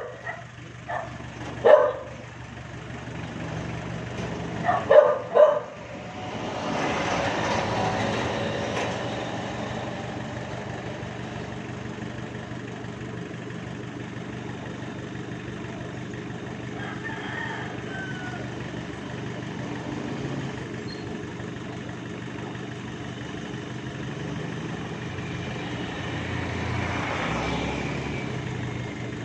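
Engine running steadily, swelling louder about seven seconds in and again near the end. A dog barks a few times in the first six seconds.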